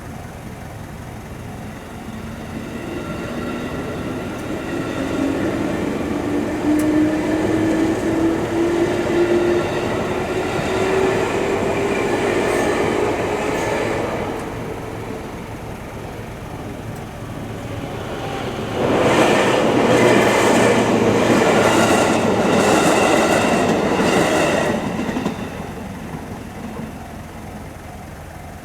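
Electric train on the JR Jōetsu Line. First a motor whine climbs steadily in pitch for about ten seconds as the train gathers speed. Then, about 19 seconds in, a loud rush of wheels on rail comes in suddenly and lasts about six seconds as the cars pass close by.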